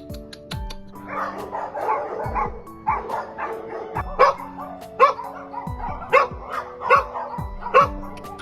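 Dogs barking repeatedly, starting about a second in, the sharp barks coming in a quick run.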